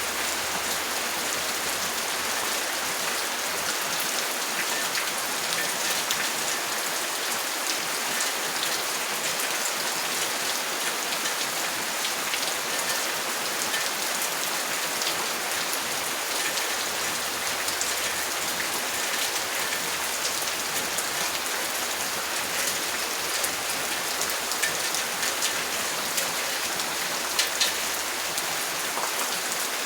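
Steady rain: an even hiss of falling rain with many individual drops ticking through it, and a few louder drops near the end.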